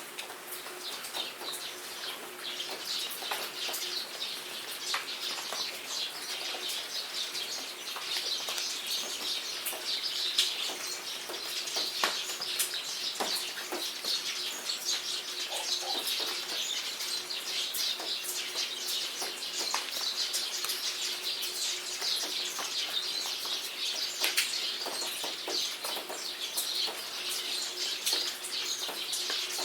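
Steady rain falling, with many sharp drop ticks, and birds chirping and calling over it throughout.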